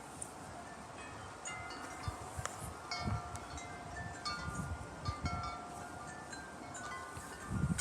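Metal tube wind chimes rung by the wind, many overlapping tones struck irregularly and ringing on. Wind gusts on the microphone give a low rumble that grows stronger near the end.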